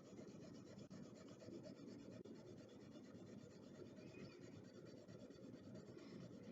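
Faint scratching and rubbing of colouring on paper, a drawing tool being worked back and forth as a drawing is coloured in.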